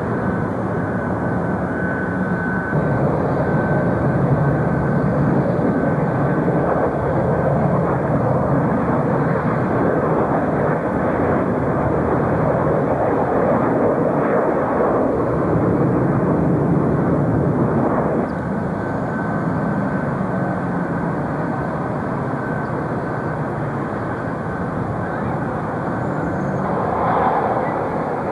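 Jet airliner engines running, a continuous broad roar that swells for several seconds and then eases off about two-thirds of the way through.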